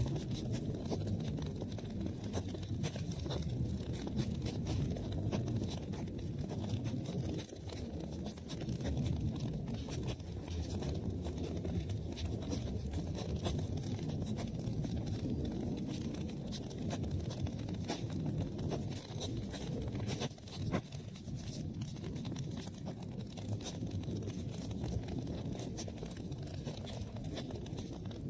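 Wood fire in a fireplace crackling steadily, with many scattered sharp pops over a low rumble of the burning.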